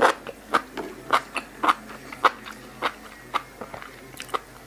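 A person chewing a mouthful of crisp salad with loud, crunchy chews at a steady pace of about two a second.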